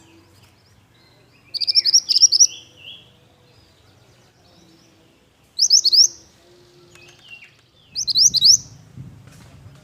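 Pied bushchat (burung mantenan) singing in three short bursts of quick, high, rapidly repeated chirping notes, with quieter calls between the bursts.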